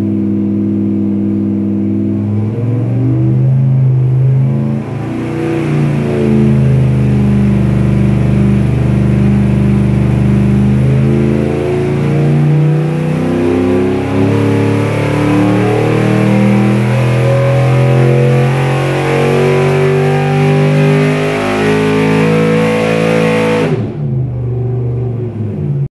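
LS3 V8 on an engine dyno, fitted with a Vararam VR-X ram-tuned intake and long-tube headers, running a dyno pull under load with the revs climbing. Near the end the revs fall away sharply and the engine sound stops.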